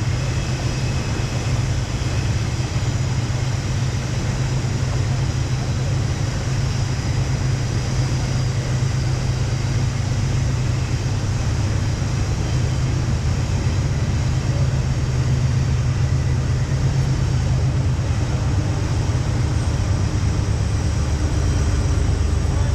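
Steady rushing roar of whitewater river rapids, heaviest in the low end.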